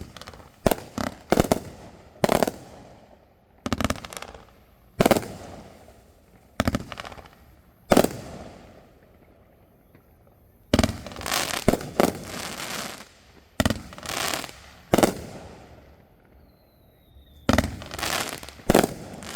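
Fireworks going off: a string of sharp bangs every second or two, each trailing off in crackle. About eleven seconds in comes a longer run of rapid crackling bursts.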